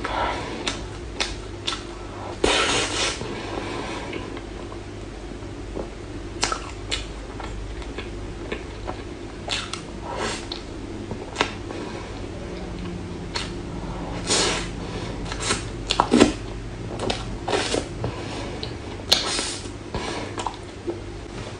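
Close-miked eating of a soft dessert: scattered wet mouth clicks and short smacking bursts of chewing over a steady low hum.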